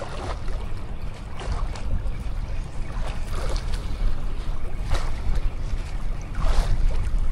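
Strong wind buffeting the microphone as a heavy low rumble, with several short splashes of water over it.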